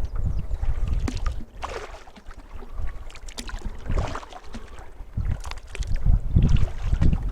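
Canoe being paddled with a double-bladed paddle: irregular blade strokes, splashes and drips in the water, with low gusts of wind on the microphone.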